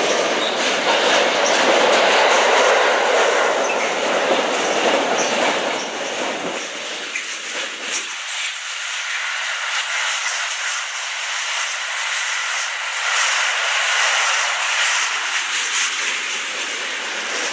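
Container freight train rolling past, a steady run of wagon wheels on the rails with many small clicks. The deep rumble drops away about eight seconds in, leaving a thinner wheel-and-rail sound.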